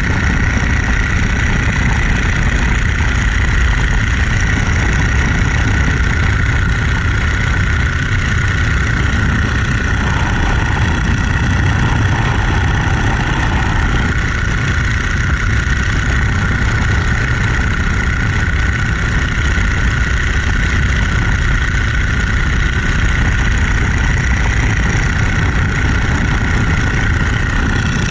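Boeing-Stearman Model 75 biplane's radial engine running steadily, with propeller and wind noise.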